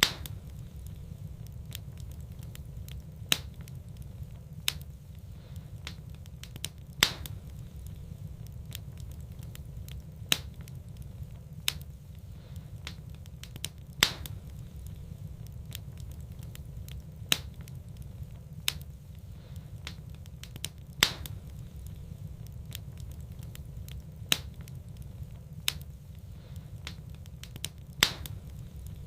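Wood fire crackling in a fireplace: sharp pops every few seconds and fainter ticks between them, over a steady low rumble.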